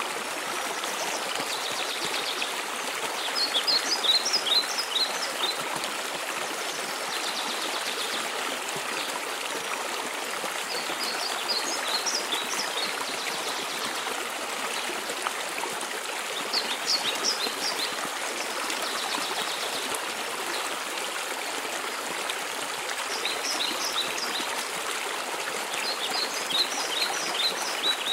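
Steady rush of a mountain waterfall, with a small bird repeating a short phrase of quick high notes every five or six seconds.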